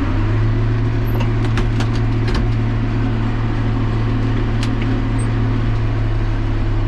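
Tractor engine running steadily under load while pulling a hay baler, settling to a higher, even drone right at the start. A few sharp clicks sound about a second or two in and once more near the middle.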